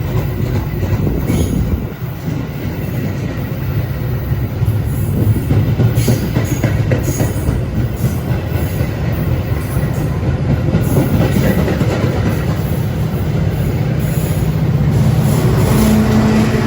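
Metra commuter train on the Union Pacific North line running through the station close by: a loud, continuous rumble of wheels on rail with scattered clicks. A steady low hum comes in near the end.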